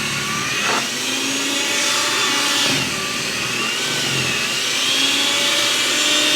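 Corded electric snow blower running steadily, its motor whine wavering up and down in pitch as it works through snow.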